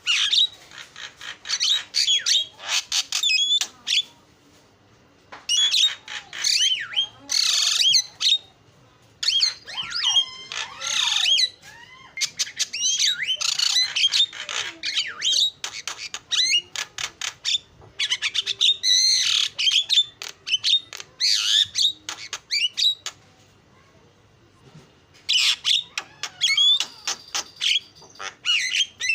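Javan myna (jalak kebo) singing: phrases of harsh squawks, rapid clicking notes and whistled sweeps, broken by short pauses.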